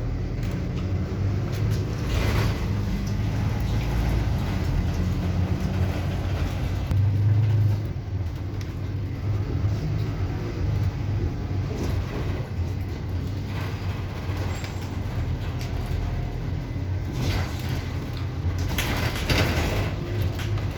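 A moving bus heard from inside: a steady low engine hum with road noise, swelling briefly a few seconds in, and a few short bursts of noise near the end.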